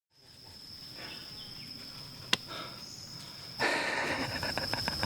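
Insects, crickets or cicadas, keeping up a steady high-pitched drone. There is one sharp click a little over two seconds in. From about three and a half seconds in, a louder stretch of rapid crackly ticking joins the drone.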